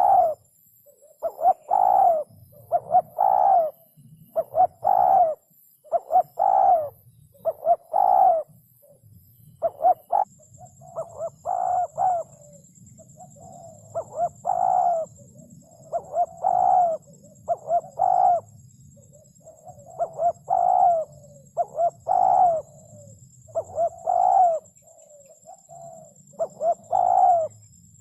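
Spotted dove cooing over and over: loud hoarse coos about once a second, grouped in phrases with softer short notes between them.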